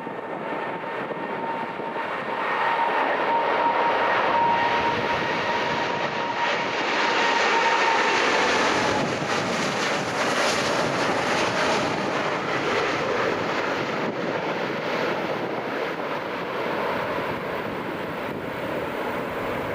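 Jet airliner passing close by: the engine roar swells, holds for several seconds with a steady high whine, then slowly fades as the whine drops away about halfway through.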